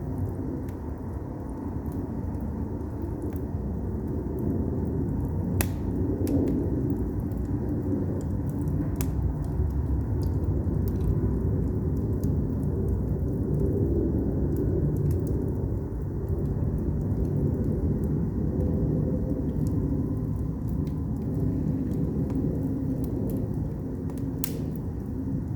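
Firewood burning in an agungi, a traditional Korean firebox: a steady low rumble of the fire with scattered crackles and sharp pops, the loudest about six seconds in and again near the end.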